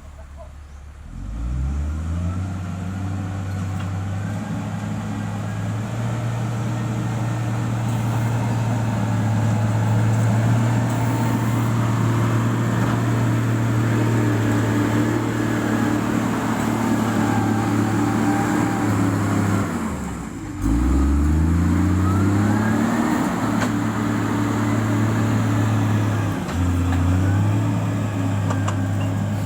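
Diesel engine of heavy road-building equipment revving up from idle about a second and a half in, then running steadily at high revs. Its pitch drops sharply about twenty seconds in and climbs back, with a shorter dip near the end.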